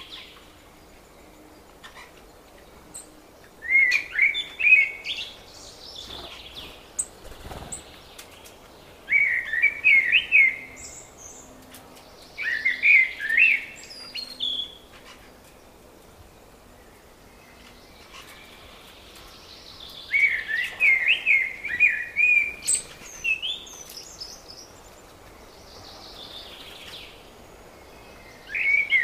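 A songbird singing loud, quick phrases of about two seconds each, repeated every few seconds. Fainter songs of other birds are heard between the phrases.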